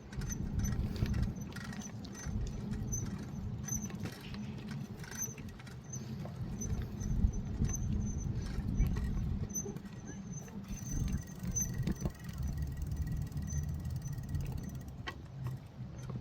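Bicycle riding along a path: a steady low rumble of rolling and wind on the microphone, with a faint high squeak or tick repeating about twice a second.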